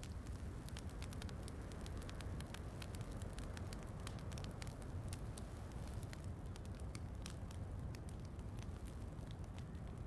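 Wood fire crackling in a fireplace, with many sharp irregular pops over a steady low rumble, blended with steady rain.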